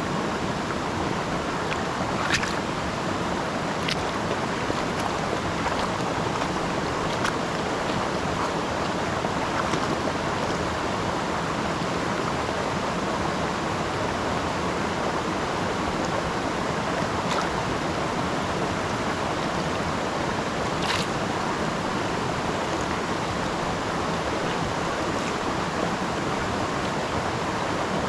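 Steady rushing of river water, with a few faint clicks scattered through it.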